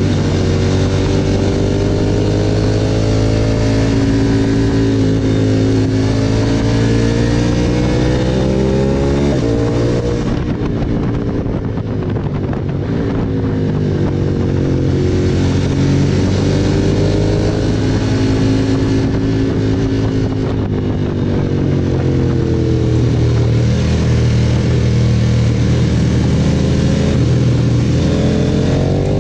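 KTM 1290 Super Adventure S's V-twin engine under way, its pitch climbing and falling as the throttle is worked. It eases off sharply about nine seconds in and twice more later, then pulls again each time, with a steady hiss over it.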